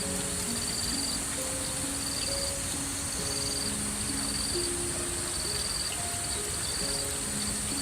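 Insects chirping, with a steady high drone and short pulsed chirps about once a second, under slow, soft melodic background music.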